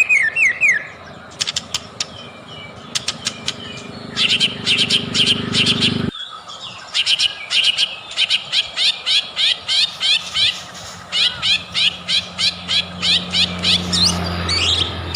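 White-rumped shama (murai batu) singing a long rapid run of sharp, sweeping whistled notes, about five a second, with a brief break partway through.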